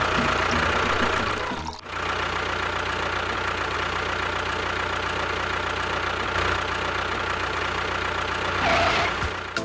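A motor running steadily, dropping out briefly about two seconds in and swelling near the end.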